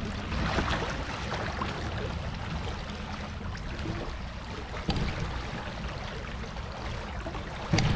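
Shallow creek water running and splashing as someone wades downstream, with a low rumble of handling noise. There are two short knocks, about five seconds in and near the end.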